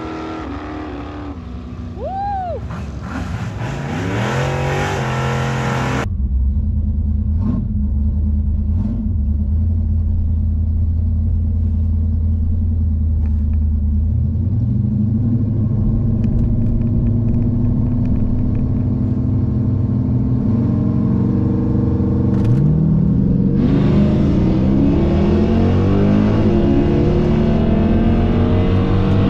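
Drag-racing cars accelerating down the strip, heard from beside the track. After a sudden cut, a Dodge Challenger's V8 engine runs at low revs, heard inside its cabin. Its pitch starts shifting partway through, and it grows louder and fuller near the end.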